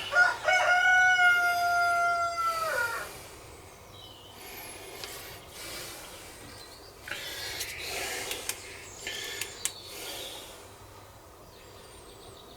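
A rooster crowing once, one long call of about two and a half seconds near the start, followed by a few light clicks and faint bird chirps.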